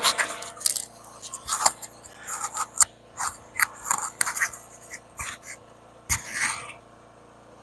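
Handling noise on the phone's microphone as the livestream starts: a string of short, irregular scrapes and taps that stops about seven seconds in.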